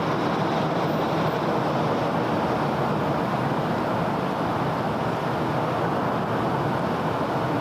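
Steady wash of city road traffic noise: a continuous blend of tyres and engines, with no single vehicle standing out.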